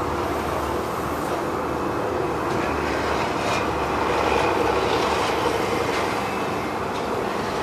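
Steady low rumble of a heavy diesel truck running, swelling slightly about halfway through, with a few faint ticks.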